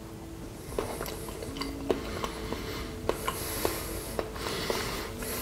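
A person chewing a mouthful of soft devilled egg topped with lumpfish caviar, with a run of small, irregular wet mouth clicks and smacks.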